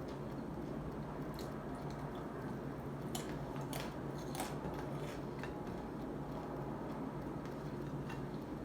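A person chewing and biting into crunchy food close to the microphone, with a cluster of sharp crunches about three to five seconds in, over a steady low hum.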